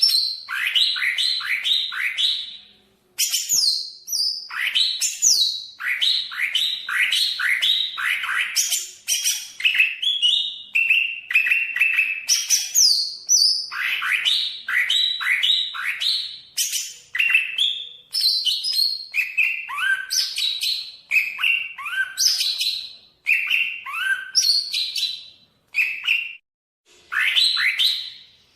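Greater green leafbird (cucak ijo) singing a long, varied song: fast runs of downward-sweeping notes mixed with higher whistles, broken by short pauses about three seconds in and near the end.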